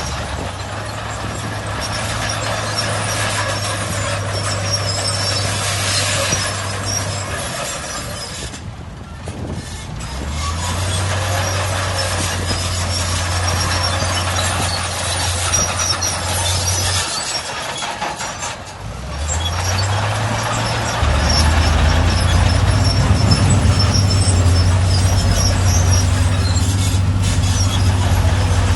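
Heavy earthmoving machinery at work: a diesel engine runs with a steady low drone over a constant noisy clatter. Both ease off briefly twice, about a third and two thirds of the way through, and the engine comes back louder near the end.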